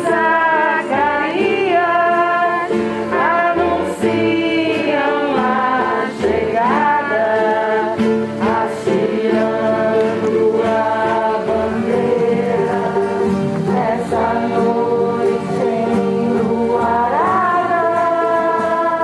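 Music: voices singing a melodic song over a steady accompaniment.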